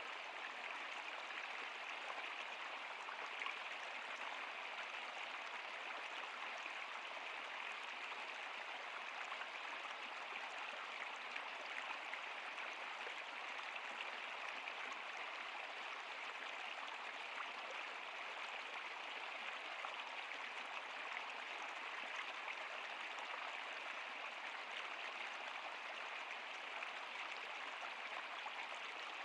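Flowing stream water running steadily, an even rush with fine splashing and trickling.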